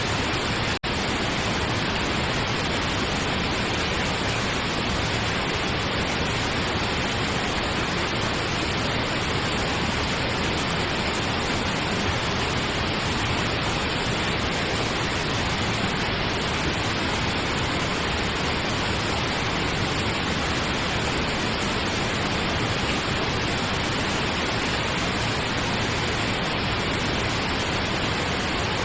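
Steady pink noise, an even hiss with no rhythm or change, broken by a very brief dropout just under a second in.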